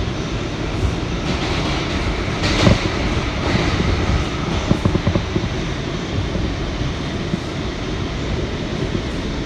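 R179 subway train running at speed through the tunnel, heard from inside the front car: a steady rumble of wheels on rail, with a louder burst of rattling about two and a half seconds in and a few sharp knocks around five seconds.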